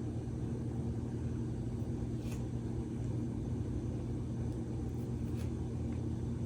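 A steady low machine hum, even throughout, with a couple of faint light clicks.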